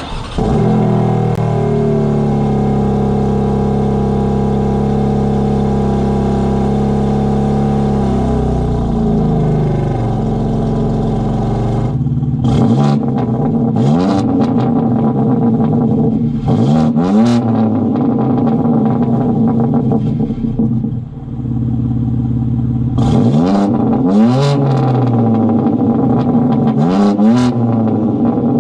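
BMW G82 M4 Competition's twin-turbo inline-six, breathing through high-flow cats and downpipes. It holds a steady drone at first, then revs hard in repeated pulls: the pitch climbs through each gear and drops sharply at each upshift.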